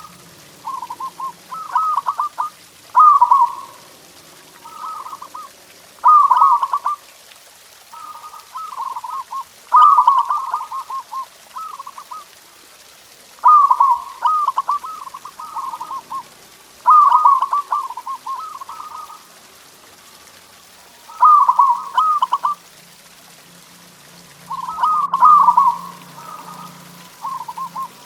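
Zebra dove (perkutut) cooing: repeated phrases of fast rippling coos, each about one to two seconds long, with pauses of about a second between them.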